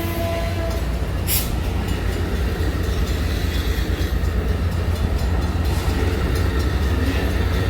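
Train passing close by: a steady low rumble of engine and wheels on the rails, with a sharp click about a second and a half in.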